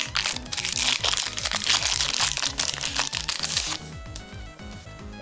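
Foil Yu-Gi-Oh! booster pack wrapper being torn open and crinkled by hand, a dense crackling that stops abruptly about three-quarters of the way through. Background music plays underneath.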